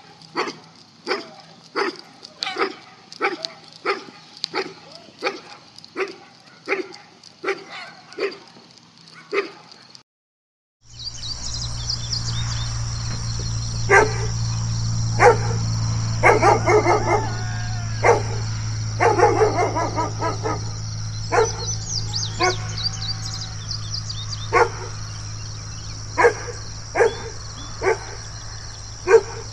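A dog barking over and over, at a steady beat of about two barks a second. After a brief break about ten seconds in, the barking picks up again more irregularly, with quick runs of several barks, over a steady low hum and a high hiss.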